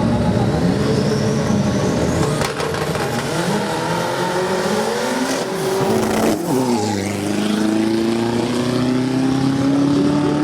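Drag-racing car engines at high revs, rising in pitch as they accelerate, with a sudden drop about six seconds in, like a gear change or lifting off, before climbing steadily again.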